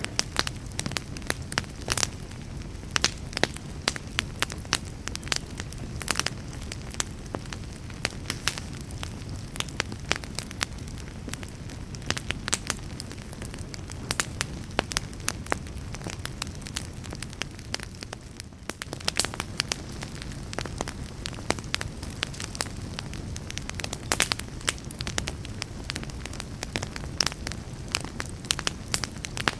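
Wood campfire burning, with a steady low rush under frequent, irregular sharp crackles and pops. There is a brief lull a little past halfway.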